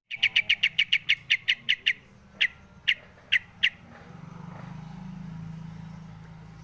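Wild crucukan bulbul calling: a fast run of about a dozen sharp, high chirps, then four slower, spaced chirps. A low steady hum comes in behind from about four seconds in.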